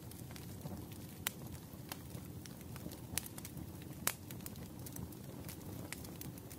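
Wood fire crackling in a fireplace: a low steady rumble with sharp pops every second or so, the loudest about four seconds in.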